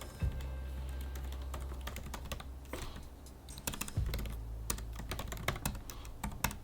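Typing on a computer keyboard: irregular runs of keystroke clicks over a low hum.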